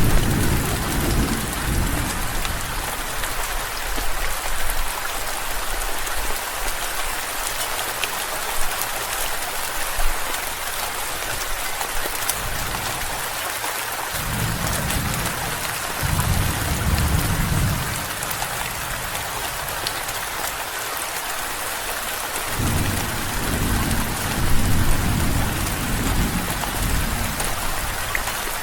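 Steady rain falling, with low rolling thunder rumbling several times: at the start, twice around the middle, and again in a longer roll near the end.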